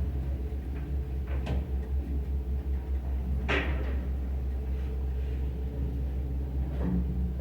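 Old Soviet Samarkand Lift Plant passenger elevator running, its AS-62 motor giving a steady low hum, with a few short clunks; the loudest clunk comes about three and a half seconds in.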